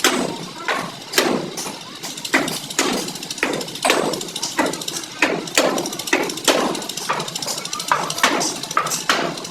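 Hammer blows on the sheet-metal body panels of a Suzuki Bolan van being beaten back into shape, about two strikes a second, each ringing briefly.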